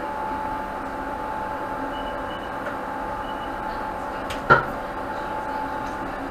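Interior of a Class 458 electric train standing at a platform, its onboard equipment giving a steady hum with a clear pitched tone. A single sharp knock about four and a half seconds in is the loudest sound.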